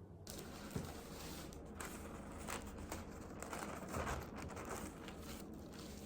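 Paper rustling and crinkling as it is handled, with a few light knocks or taps.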